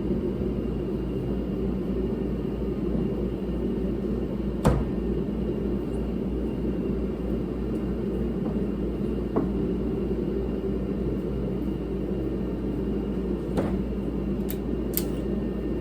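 Steady low drone of a running heater, with a few sharp metal clicks from working armored BX cable with pliers, the loudest about five seconds in and a cluster near the end.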